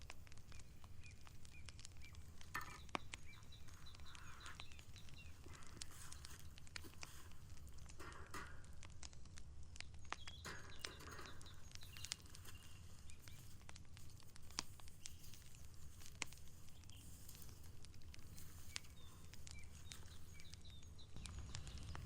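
Faint rustling and handling noises with scattered small clicks over a steady low rumble, and a few faint chirps.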